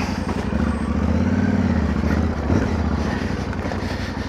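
Yamaha Ténéré 700's parallel-twin engine pulling away, its revs rising for about two seconds and then easing off.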